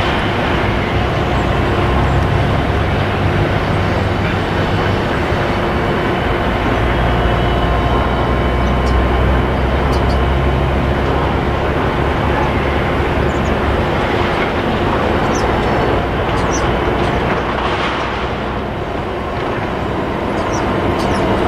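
A train rolling past, a steady loud rumble of wheels on the track, with faint high ticks scattered through it.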